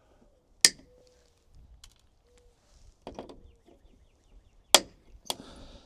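Flush-cut wire cutters snipping off the protruding ends of steel hot staples set in plastic, each cut a sharp snap; about four snaps, the second-to-last the loudest.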